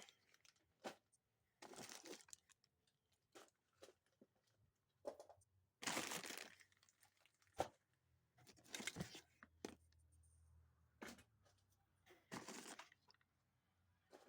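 Rummaging through a box of used carburetors kept in plastic bags: about four bursts of plastic rustling and crinkling, with sharp clicks of parts being handled in between.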